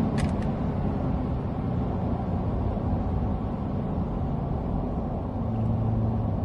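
Ford F-150's 3.5L twin-turbo V6 idling through an SPD Performance equal-length dual exhaust, a steady low rumble just after a rev. It swells slightly near the end. Two light clicks come just after the start.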